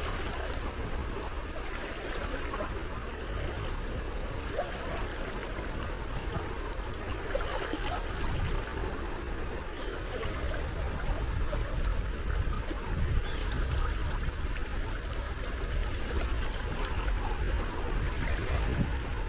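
Small sea waves lapping and washing at the shore: a steady watery wash with a low rumble underneath, getting a little louder in the second half.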